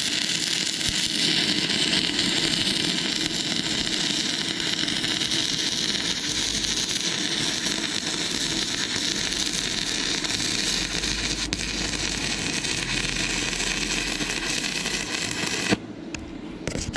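Stick-welding arc from an inverter arc welder burning an E6011 rod on rusty, painted metal: a steady, loud crackle that stops abruptly near the end as the arc is broken.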